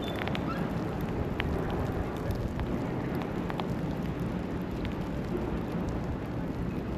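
Steady city street ambience in a snowstorm: a low traffic rumble and a rain-like hiss of tyres and slush, with a few faint short clicks.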